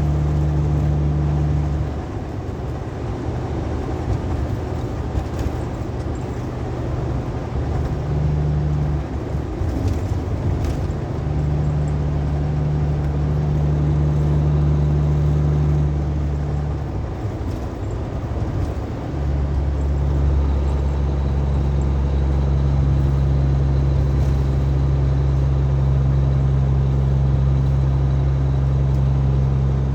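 Truck running down the road: a steady low engine drone over road noise, its low hum easing off and coming back a few times.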